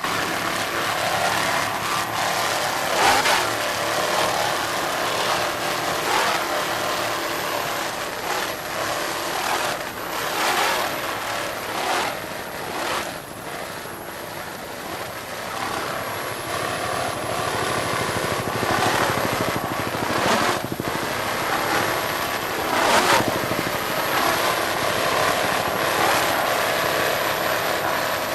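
Offshore racing powerboat engines running at speed: a steady engine drone that surges every second or two.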